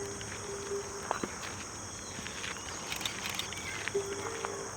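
Insects, crickets or the like, chirring in a steady high-pitched drone. Short low steady tones sound at the start and again about four seconds in.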